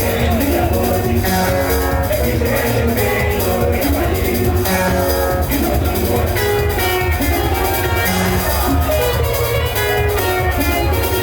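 Live band music, loud and steady, with plucked guitar lines over a drum kit beat.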